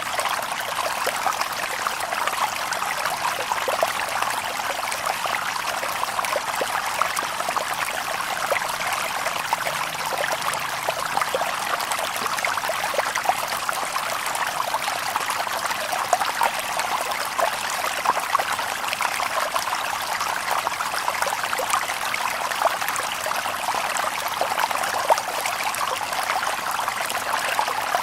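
Shallow stream babbling over stones: a steady wash of running water, full of small splashes and trickles.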